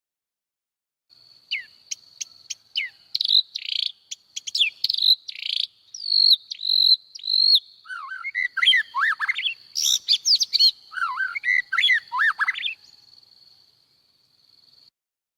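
Small birds chirping and twittering in quick, varied notes, many of them short gliding whistles. A steady high-pitched drone, like an insect, runs beneath them. It starts about a second in and stops just before the end, with the birds falling quiet a couple of seconds before that.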